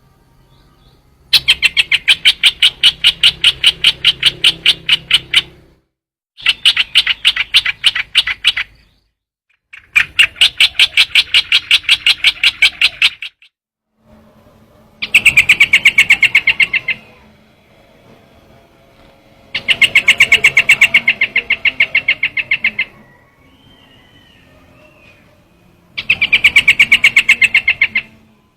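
Trao trảo bird call played as a decoy: six bursts of rapid, evenly repeated chattering notes, each burst lasting two to four seconds with short pauses between.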